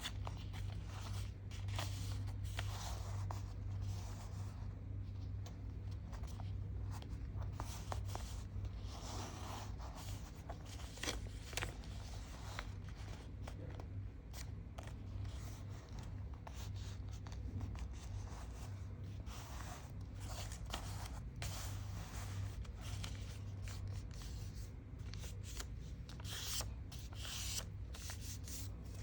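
Sheet of paper being handled, folded and creased by hand: intermittent rustling, rubbing and short scraping strokes over a steady low hum.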